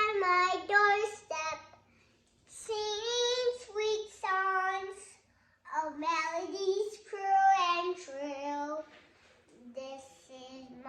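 A child singing a melody unaccompanied, in phrases with short breaks between them, the last phrase quieter.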